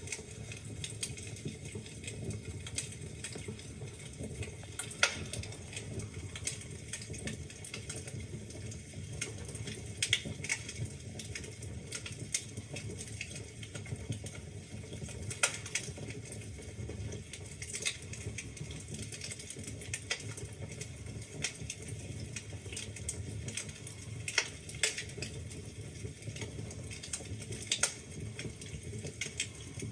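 Wood fire burning in a fireplace: a steady low rumble of the flames with irregular crackles and sharp pops from the logs.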